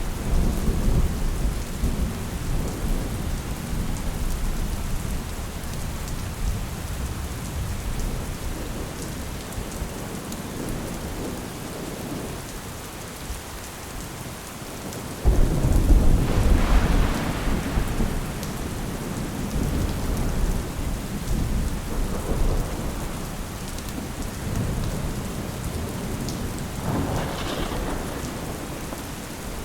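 Steady rain with rolls of thunder: a rumble fading over the first few seconds, a sudden loud clap about halfway through that rumbles on for several seconds, and a weaker roll near the end.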